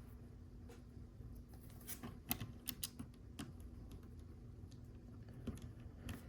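Faint, sharp clicks and taps of small plastic LEGO pieces being handled, with a quick cluster about two seconds in, over a faint steady hum.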